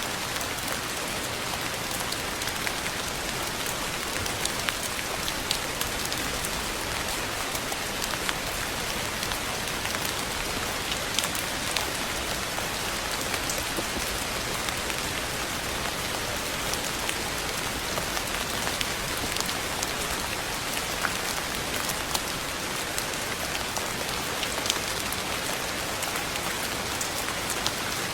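Steady rain falling, a constant hiss with many scattered drop ticks landing on a surface.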